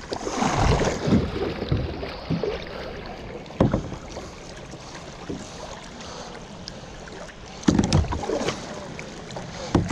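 Hollow knocks and thumps on a kayak from paddle or fishing gear, one alone near the middle and a cluster near the end, over a steady wash of background noise.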